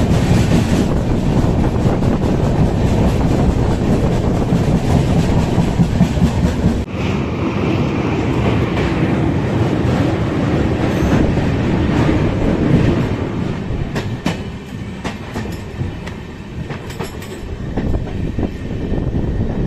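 Passenger train running along the track: steady running noise with the wheels clattering over the rails. It drops suddenly in level about seven seconds in, and sharp clicks from the rails come through near the end.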